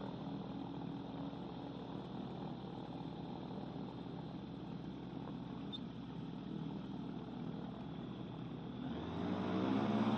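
Microlight trike's engine running steadily at low power, heard muffled through the helmet intercom. About nine seconds in it rises in pitch and grows louder as the throttle opens for the takeoff roll.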